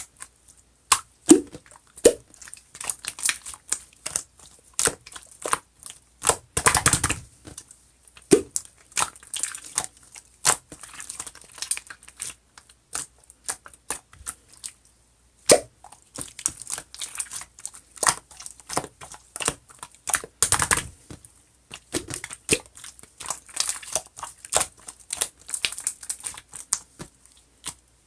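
Pink pearl slime being squished, pressed and stretched by hand, making irregular sticky clicks, pops and crackles. It pauses briefly about halfway through and stops just before the end.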